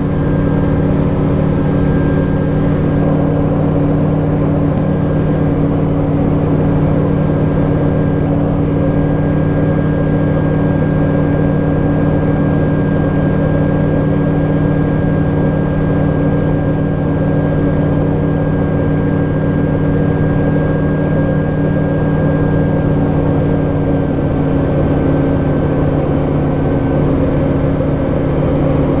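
AutoGyro Cavalon gyroplane's piston engine and pusher propeller running at a steady power setting, a constant drone with a thin high whine above it that stops near the end.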